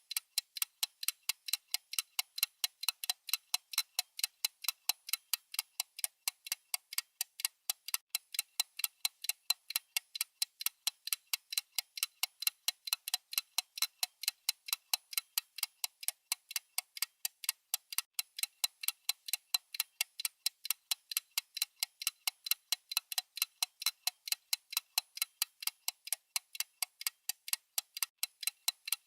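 Clock-style ticking sound effect of a countdown timer: steady, evenly spaced, sharp ticks, several a second.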